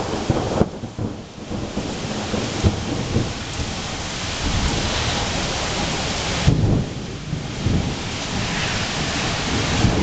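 Thunderstorm: steady rain with low rumbles of thunder, the strongest about six and a half seconds in.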